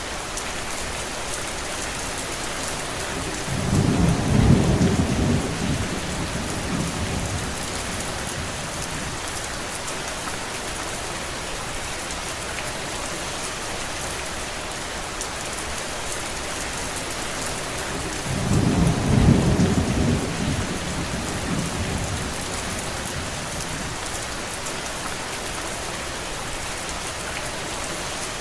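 Steady rain falling, with two low rolls of thunder, about four and about nineteen seconds in. Each swells and fades over a few seconds.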